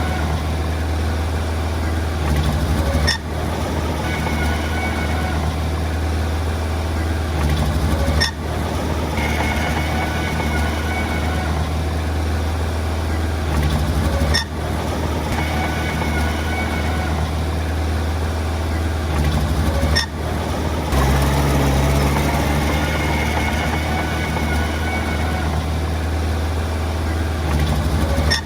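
Diesel engine of heavy earthmoving machinery running steadily, with a short click and dip in level every five or six seconds and a change in its tone about three-quarters of the way through.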